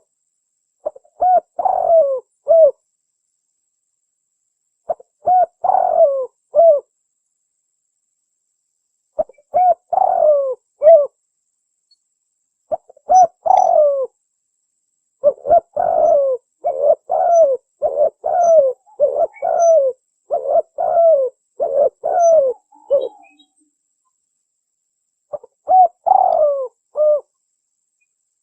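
Spotted dove cooing: short phrases of a few low, descending coo notes separated by pauses of a few seconds, with a longer run of quick repeated coos through the middle. This is the wild dove's call as used to lure other doves.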